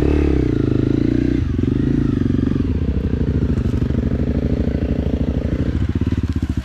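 Motorcycle engine running loud under load on a trail. The revs drop over the first second and a half, then hold fairly steady with a fast, even exhaust pulse.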